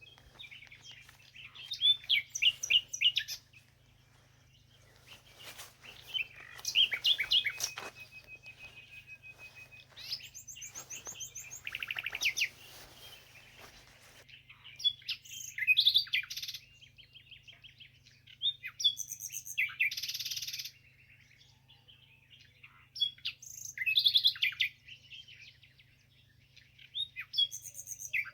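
Small songbirds chirping and singing in short, rapid trilled phrases every few seconds, with brief pauses between, over a faint steady low hum.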